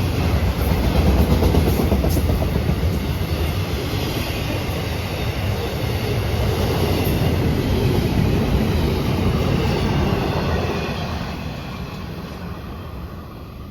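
Freight train cars rolling past on the rails with a steady rumble and rattle of wheels, fading away over the last few seconds as the train moves off.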